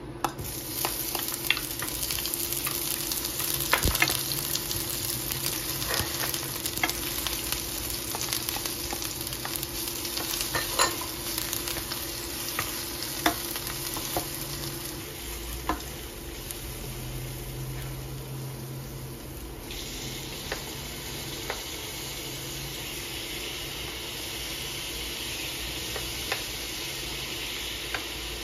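Chopped onion and garlic sizzling and frying in hot oil in a stainless steel pan, stirred with a wooden spatula that knocks and scrapes against the pan. About twenty seconds in the sizzle changes tone as chopped tomato goes in.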